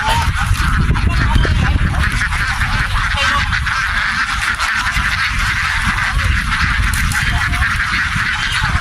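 A huge flock of domestic ducks quacking continuously, many calls overlapping into a dense chatter, over a steady low rumble.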